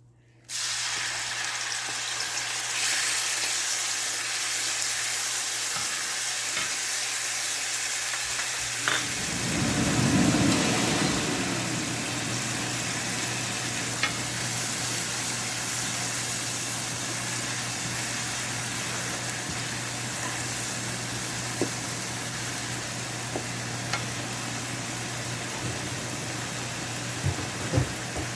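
Crushed garlic and red chili frying in hot oil in a pan, a steady sizzle that swells louder for a couple of seconds around the ten-second mark. A few light clicks sound over it, with a steady low hum beneath.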